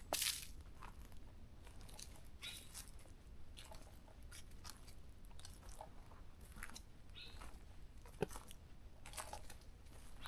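Footsteps crunching on the forest floor, an uneven series of short crunches of leaf litter and twigs underfoot, with a louder crunch at the start and a sharp snap near the end.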